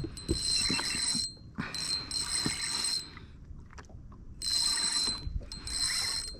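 Spinning fishing reel whirring in four separate bursts of about a second each, a high, steady mechanical whine, while a hooked trout is played on light line.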